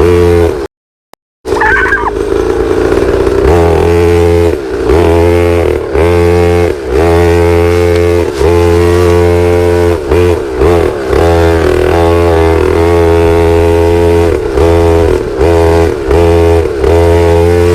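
Pit bike engine running hard while riding, its pitch dipping and picking up again every second or so as the throttle is eased and reopened. A brief dropout of total silence about a second in.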